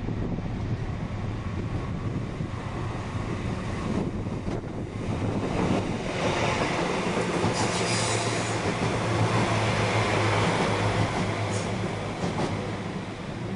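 A train running through the station on its rails, growing louder about halfway through as it comes closest, with a high wheel squeal partway through.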